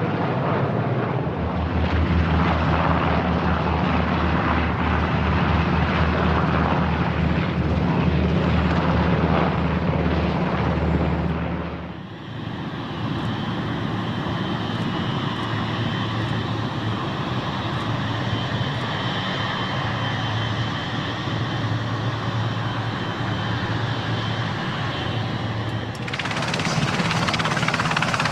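Military aircraft noise in three cut-together takes. First comes a rapid low beat like a helicopter's rotor. About twelve seconds in, it cuts to a steady high whine over rushing engine noise, then near the end to another loud engine sound.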